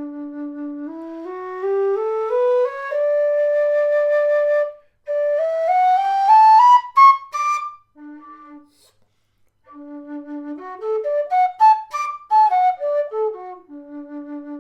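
Karavaev Nightingale aluminium-bodied low D whistle playing a scale from the bottom D. It climbs stepwise through the first octave, holds the upper D, then goes on up into the second octave, with a breathy edge on the top notes. After a short pause it runs up again and back down, ending on a held bottom D.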